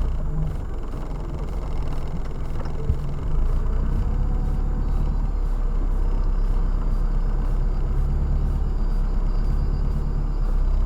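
Steady low rumble of a car driving, the engine and tyre noise heard inside the cabin, with a single short click about three seconds in.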